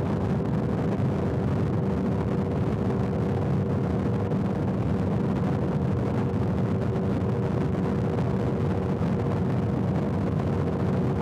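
Motorcycle engine running at a steady highway cruising speed, its even drone mixed with wind and road rumble.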